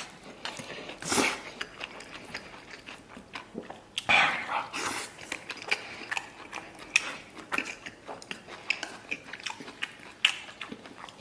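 A person eating close to the microphone: biting and chewing mouthfuls of chili stir-fried pork belly and rice, with many small wet clicks and smacks and a few louder bites about a second in and about four seconds in.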